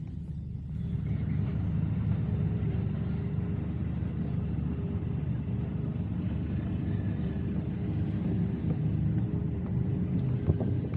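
Low-speed car running noise heard from inside an open-top Mazda MX-5 Miata: a steady low rumble of its four-cylinder engine and tyres, getting a little louder about a second in as the car moves along.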